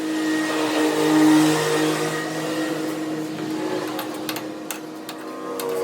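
An electric power tool's motor running steadily with a hissing, grinding noise, loudest about a second in. A few sharp clicks follow near the end.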